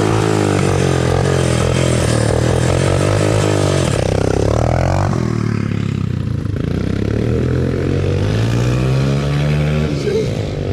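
Small single-cylinder off-road engine running and revving up and down, with a second engine's pitch shifting alongside it.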